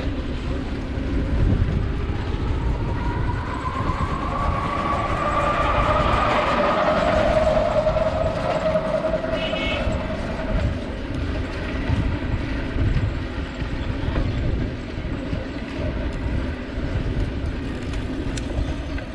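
A vehicle passing, its engine tone slowly rising, then falling and fading, over steady low rumble of wind and road noise on a moving bicycle; a brief high horn-like tone sounds about halfway through.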